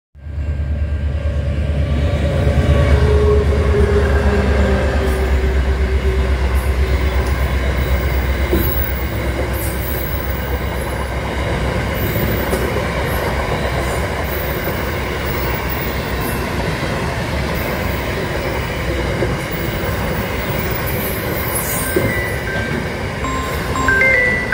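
Aurizon grain train rolling past at speed: a deep rumble, loudest in the first several seconds, then the steady roar and rattle of grain hopper wagons going by, with short high wheel squeals now and then.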